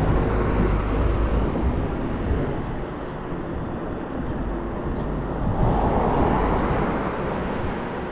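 Wind rushing over the microphone and road noise from a moving e-bike, with heavy low buffeting in the first couple of seconds and a louder swell of rushing noise about six seconds in.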